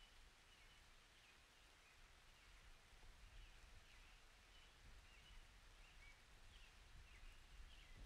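Near silence: faint outdoor ambience with small birds chirping briefly and repeatedly, over a low background hum.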